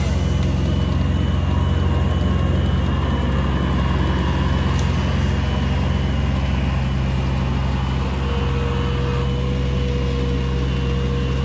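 An engine running steadily at constant speed, with a thin steady high whine over it.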